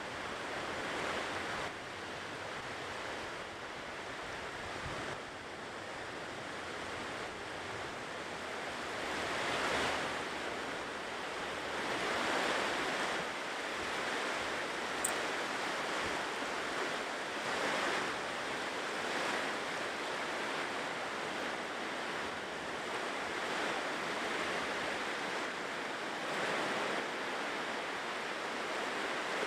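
Ocean surf washing onto a shore, swelling and easing every few seconds as waves break, with a brief high click about halfway through.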